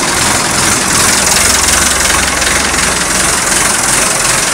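Massey Ferguson 178's Perkins diesel engine running loud and steady at idle, seconds after a cold start without glow plugs, warmed only by a plugged-in block heater.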